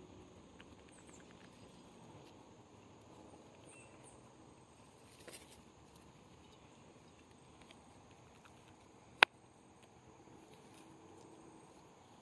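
Quiet outdoor background with a few faint ticks and patters, and one sharp click about nine seconds in.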